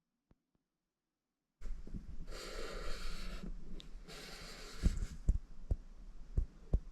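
An animal breathing heavily and snorting close to the microphone: two long breathy exhalations about a second each, with scattered clicks and a low hum.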